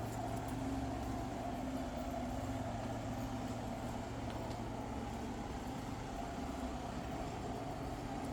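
Steady mechanical hum with a few held low tones, like an engine idling or running machinery, unchanging throughout.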